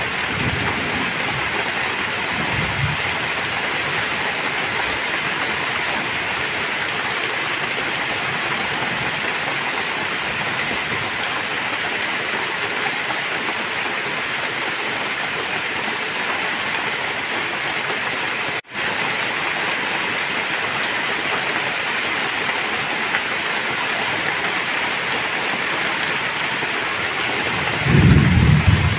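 Heavy rain pouring steadily, with low rumbles of thunder near the start and a louder rumble near the end. The sound drops out for a split second about two-thirds through.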